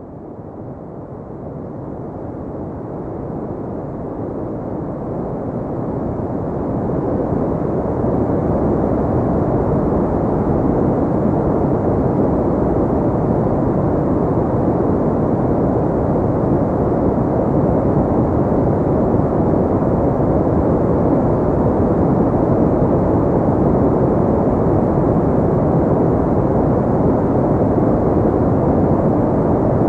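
Pink noise, a steady, even hiss weighted toward the low end with little top, swelling up over the first several seconds and then holding level.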